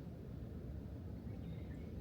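Outdoor ambience: a steady low rumble, like wind on the microphone, with a few faint bird chirps about one and a half seconds in.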